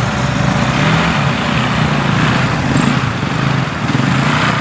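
Off-road 4x4's engine running, its revs rising and falling.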